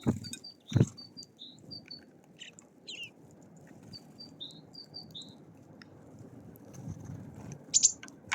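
Small songbirds calling around a feeder, with short high notes repeated in pairs and a louder high chirp near the end. Two sharp knocks come within the first second.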